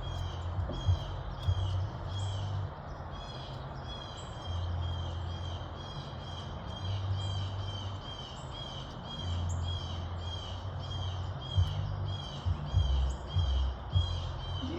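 A bird calling over and over in a steady rhythm, about two short calls a second, over a low rumble that comes and goes.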